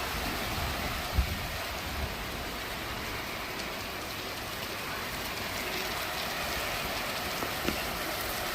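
Heavy rain falling steadily in a storm, an even hiss of rain on surfaces. A brief low thump about a second in, and a smaller one near the end.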